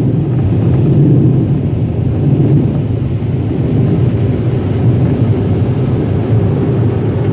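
Automatic car wash air dryers blowing hard against the car, heard from inside the cabin as a loud, steady rush of air.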